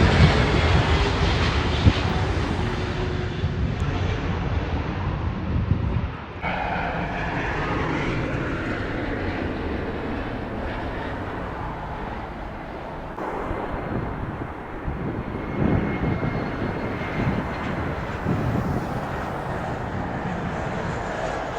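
Jet airliner engines during a landing approach, loudest at first with a slowly falling pitch as the aircraft passes, then fading. After a sudden change about six seconds in, a quieter, steady aircraft rumble continues.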